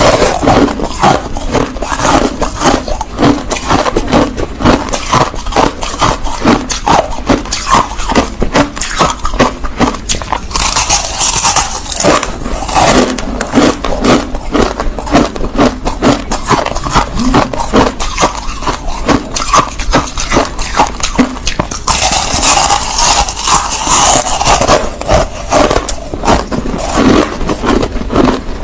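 Close-miked crunching of crushed ice being chewed: a dense, irregular run of sharp crunches several times a second, with two louder, hissier stretches of crackling, one around the middle and one a few seconds before the end.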